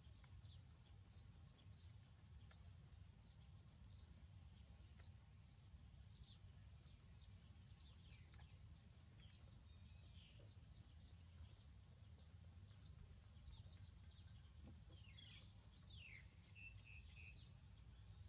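Faint, high-pitched chirping of small birds: many short chirps scattered throughout, with a few falling calls near the end, over a steady low rumble.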